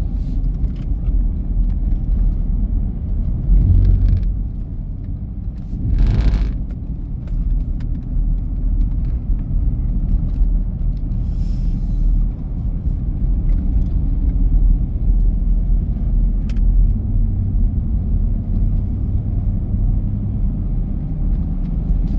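Car driving: a steady low road rumble, with a few brief clicks and rattles.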